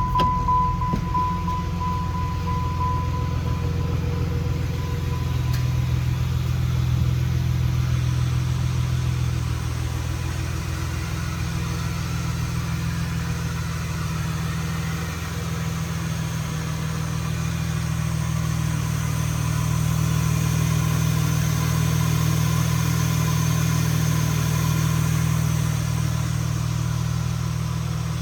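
2001 Plymouth Prowler's 3.5-litre V6 running at idle, a steady hum that rises and falls slightly in level. A thin, steady high tone fades out in the first few seconds.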